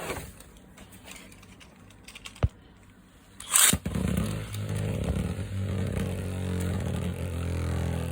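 A Beyblade spinning top is launched with a short loud rip about three and a half seconds in, then spins with a steady whirring hum. A sharp click comes about a second before the launch.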